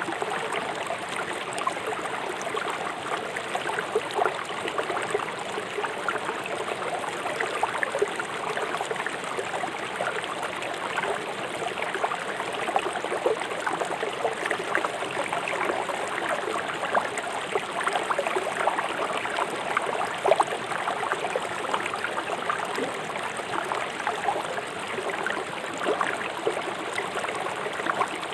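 Fast-flowing river rushing and splashing over stones: a steady, dense burble with constant small splashes.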